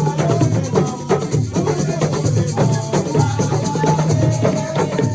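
Assiko music: hand drums and rattling shakers play a busy, steady rhythm, with pitched parts above the drums.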